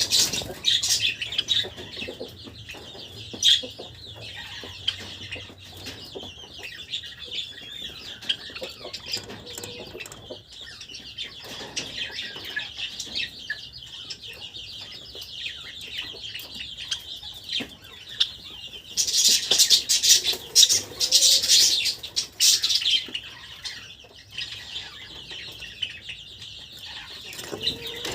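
Several Java sparrows chirping and chattering continuously in short, high calls, with a louder, busier stretch of calls and fluttering about twenty seconds in.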